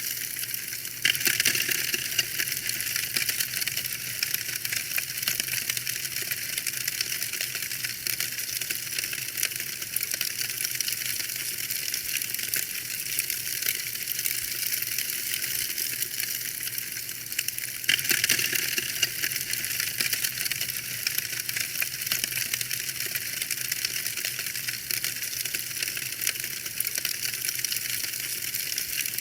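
Wood fire crackling in a fireplace: a dense, steady stream of small pops and snaps, with a louder flurry of crackles about a second in and again a little past the middle.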